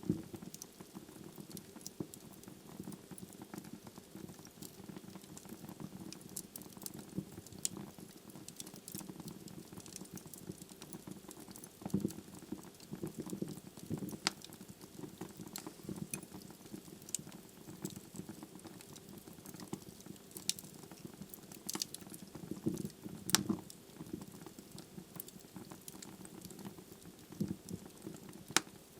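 Wood fire burning in a fireplace: a low steady hiss with many irregular crackles and sharp pops from the burning logs, a few louder pops about halfway through and again later.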